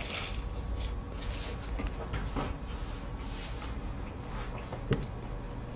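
Quiet chewing of a flaky butterfly pie (palmier-style puff pastry), with faint crackles of the pastry layers and a few soft clicks, one a little before five seconds in.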